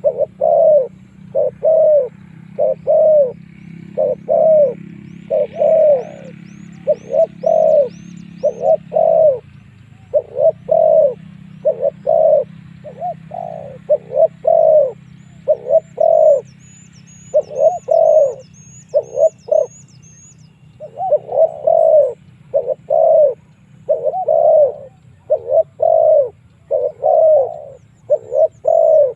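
Spotted dove cooing over and over in short grouped phrases, a lure call used to draw in rival wild doves. A small bird's thin, high chirps run in quick series twice, and a low steady hum sits underneath.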